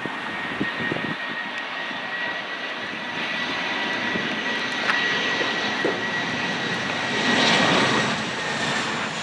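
Fixed-wing airplane engines running, with a steady high whine over a dense rushing noise that grows louder to a peak about three-quarters of the way through, then eases.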